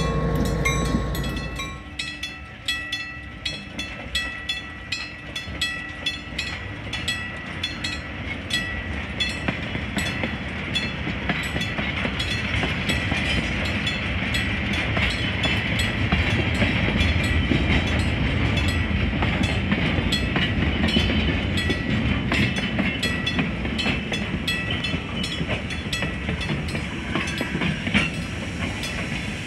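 A train passing close by. A low engine rumble for the first two seconds gives way to its wheels clicking rapidly and rhythmically over the rail joints, over a steady thin high tone.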